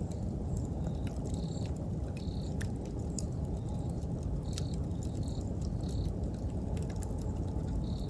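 Wood campfire crackling, with scattered sharp pops over a low rumble of burning, while an insect chirps in short high pulses every half second or so.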